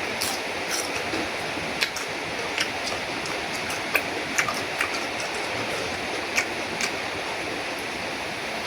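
Eating sounds over a steady background hiss: about a dozen scattered sharp clicks and smacks of chewing and of utensils tapping a noodle bowl.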